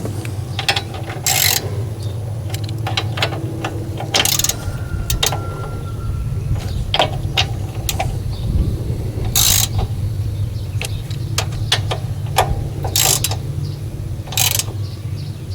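Hand tools tightening the screws on a generator's mixer assembly: scattered, irregular metal clicks and a few short sharp scrapes, over a steady low hum.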